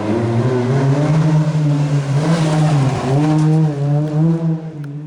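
Rally car engine revving hard as the car passes, its pitch climbing and dropping through gear changes with a brief lift about three seconds in, then fading as it moves away near the end.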